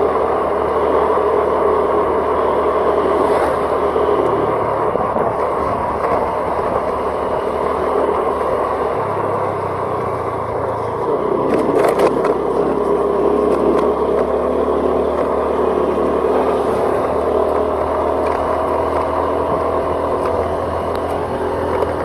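A vehicle travelling along a road, its engine running under the steady rush of road and wind noise. The engine's low note shifts about halfway through, and there is a brief clatter a little after.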